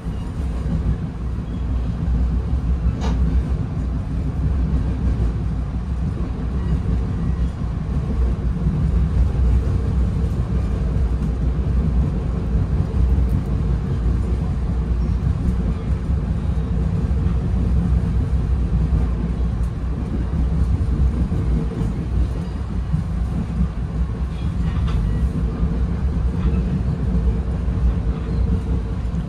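Cabin sound of a Bombardier Comet IIM commuter coach on the rails: a steady low rumble with a faint hum, and a single click about three seconds in.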